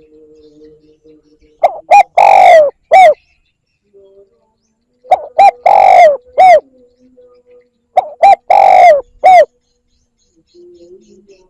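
Spotted dove cooing: three phrases about three seconds apart, each two short coos, a long drawn coo and a final short coo. The recording is loud enough to clip.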